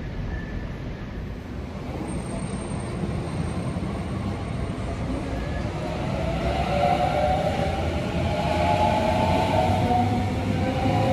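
Sydney Trains double-deck electric train passing close by: a rumble that grows louder from about two seconds in, with a wavering mid-pitched whine from about six seconds on.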